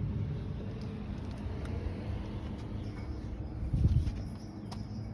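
Air-conditioner condensing units running with a steady low hum, and a dull thump about four seconds in.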